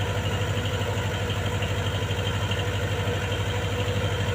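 Diesel engine idling steadily with an even, rapid throb.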